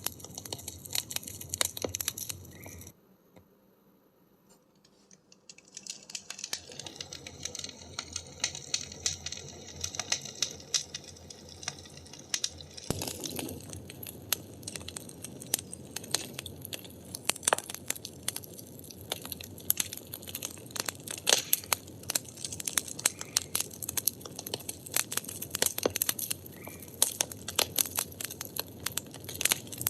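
Burning firewood crackling, with many sharp pops and snaps over a soft hiss. About three seconds in it drops to near silence for about three seconds, then comes back, with the pops louder and more frequent from about halfway through.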